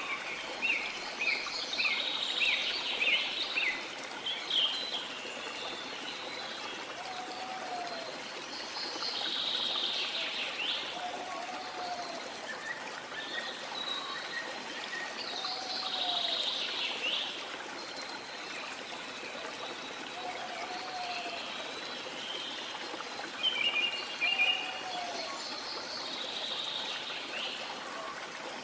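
Steady rush of waterfall water, with birds calling over it: a quick run of chirps in the first few seconds, then high sweeping calls and a soft, low, arched whistle that recur every few seconds.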